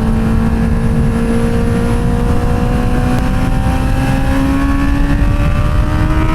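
Inline-four motorcycle engine pulling steadily in one gear, its pitch rising slowly as the bike gains speed, over wind noise.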